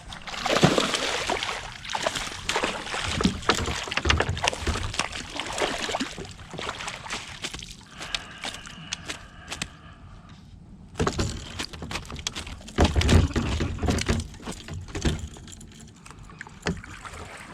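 Water splashing and sloshing as a hooked bass thrashes at the surface and is landed at a kayak, in irregular bursts with a quieter lull a little past the middle.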